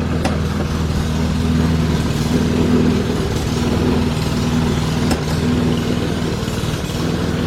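Small lawn mower engine running steadily at a constant speed, with a couple of faint short clicks over it.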